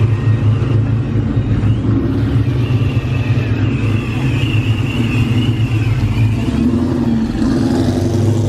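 A car engine running close by at idle, a steady low rumble.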